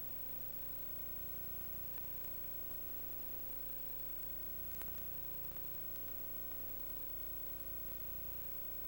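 Steady low hum with hiss behind it, and a single faint click about five seconds in.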